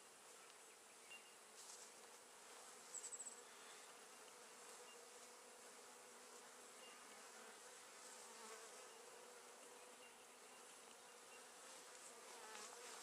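Faint, steady buzzing of honey bees at an opened beehive, with a short, quick high chirp about three seconds in.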